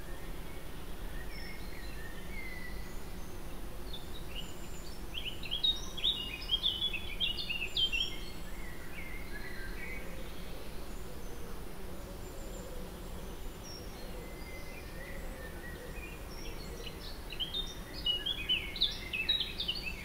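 Birdsong over a steady outdoor background hum, with two spells of quick, high chirping notes: one about five seconds in, the other near the end.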